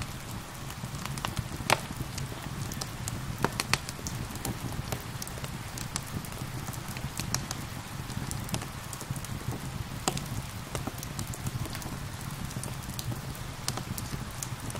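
Crackling wood fire with frequent irregular sharp pops and snaps over a steady low rumble, mixed with the steady hiss of falling rain.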